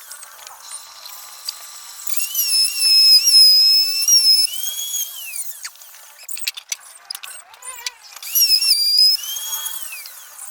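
High-pitched whine of a small electric power tool such as a drill, run in two bursts, its pitch dipping and wavering as it loads up. Between the bursts come a few light clicks and knocks.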